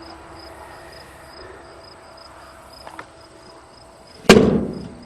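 A single loud, sharp bang about four seconds in, dying away within a second, over a faint steady background hum.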